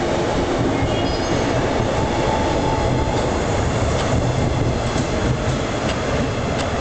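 183 series electric train pulling out of the station and passing close by, a steady running noise with wheels clicking over rail joints in the second half as the last car goes past.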